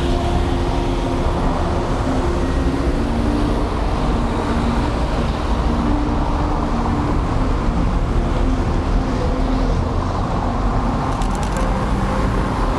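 Street traffic: motor vehicles running and passing in a steady, loud low rumble with a faint engine hum.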